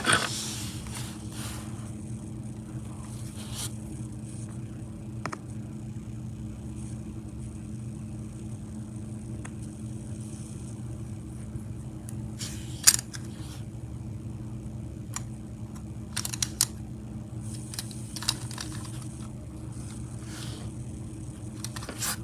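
A steady low electrical hum, with occasional small clicks and scrapes of a finished plastic HO scale hopper car being handled. The sharpest click comes about 13 seconds in, and another comes at the very end.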